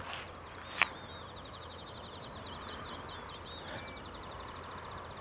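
A bird singing one long, rapid trill of repeated high notes lasting several seconds, over quiet outdoor ambience. A single sharp click sounds just before the trill begins.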